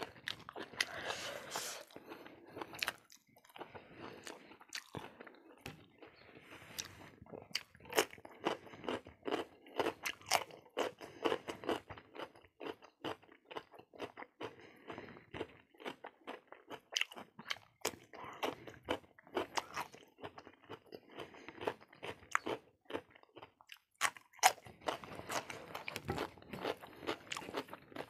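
A person chewing and biting food close to a clip-on microphone: crisp crunches and wet mouth clicks in an irregular stream, including a bite into a cucumber slice around the middle.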